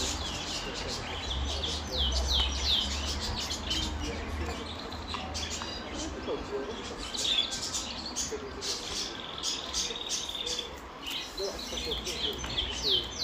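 Canary singing: series of quick, high, falling notes, a fast buzzy trill partway through, then more falling notes near the end.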